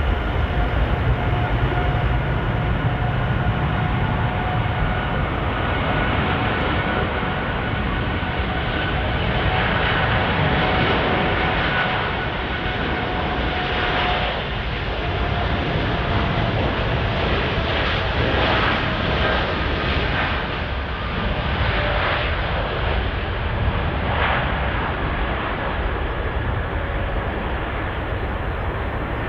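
Jet airliner engines running at high power, a steady loud rush with a few whining tones that slowly fall in pitch. It turns rough and crackling through the middle.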